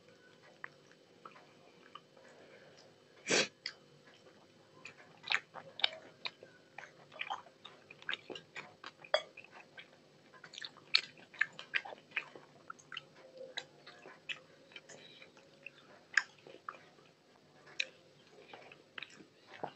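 Close-miked eating: wet chewing, lip smacks and squishing of rice mixed with curry, eaten by hand from a stainless steel plate, with many short irregular clicks and one louder burst about three seconds in.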